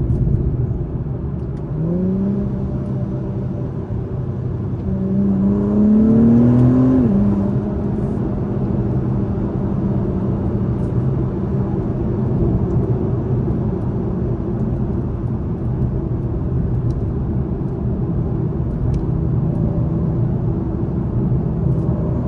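2021 Acura TLX Type S's turbocharged V6 from inside the closed cabin. It accelerates briefly about two seconds in, then harder with a rising pitch around five to seven seconds in, before dropping to a steady cruise over low road rumble.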